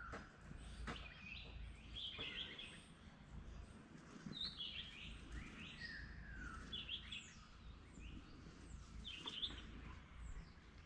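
Several birds calling: scattered chirps and short calls, many sliding down in pitch, coming every second or so over a faint low rumble.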